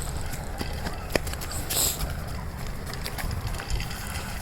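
Footsteps with irregular light crunches and a brief rustle about two seconds in, over a low rumble of wind on the microphone.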